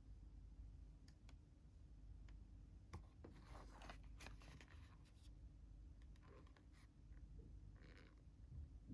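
Near silence, broken by a few faint clicks and short scrapes.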